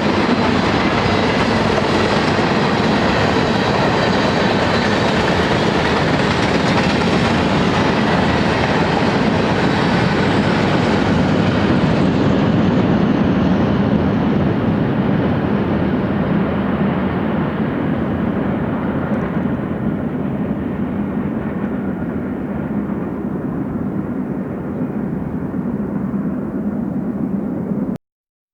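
BNSF freight train rolling past, a steady rumble of steel wheels on rail. The higher sounds fade out over the second half and the sound cuts off abruptly near the end.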